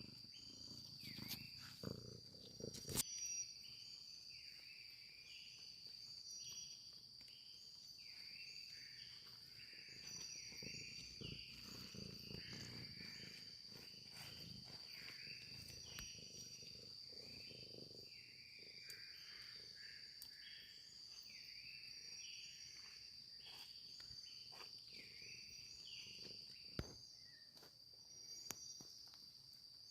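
Night forest chorus: a steady high insect drone with many short, falling chirp calls repeating about once or twice a second. A few sharp knocks sound about three seconds in and again near the end.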